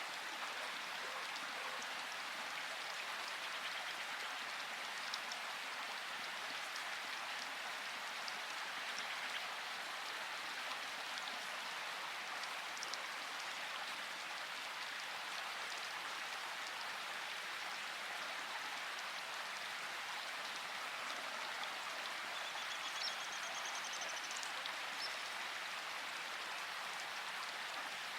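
Steady rain falling, an even hiss with many small drops pattering. A brief faint high-pitched sound comes about three-quarters of the way through.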